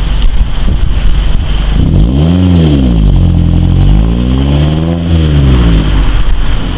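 Mazda Protege exhaust through a DC Sport aftermarket muffler on the stock header and stock 1 3/4 inch pipe, a sound the owner likens to a Subaru's. It idles roughly, then the engine is revved up and let fall twice, about two seconds in and again near five seconds.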